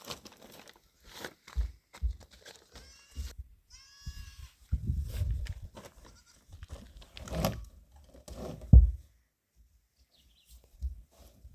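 Goats bleating in short high calls, among scattered knocks and handling noise, with one sharp loud thump near the end.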